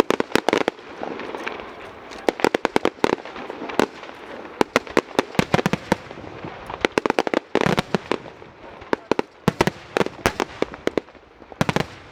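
Fireworks display: sharp cracks and bangs going off in quick clusters every second or two, over a steady background noise.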